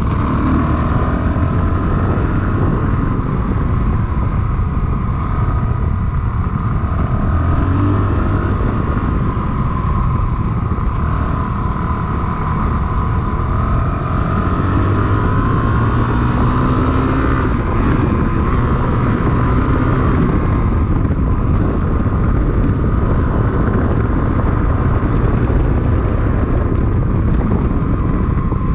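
Honda CRF450RL dual-sport motorcycle's 450 cc single-cylinder four-stroke engine running while riding, its pitch rising and falling as the revs change.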